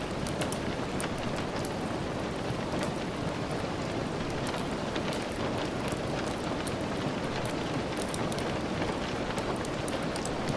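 Steady rain hissing evenly, mixed with a log fire in a fireplace, with many small sharp crackles and ticks scattered throughout.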